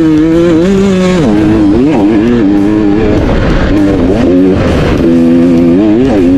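Dirt bike engine running hard, its pitch holding then dipping and climbing again as the rider shifts and works the throttle, mixed with guitar music.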